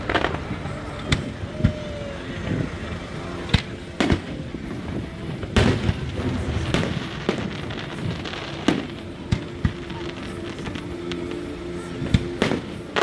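Aerial fireworks bursting in an irregular string of sharp bangs, roughly one a second, each echoing briefly, over the murmur of a watching crowd.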